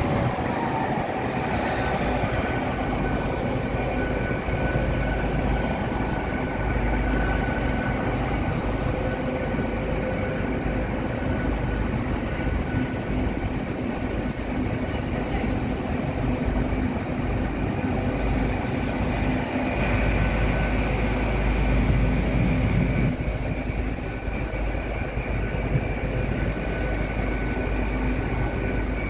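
Great Western Railway Class 800 bi-mode train pulling slowly into the station on its underfloor diesel engines. A whine falls in pitch over the first couple of seconds as it slows, then it runs on steadily with a hum and several held whining tones.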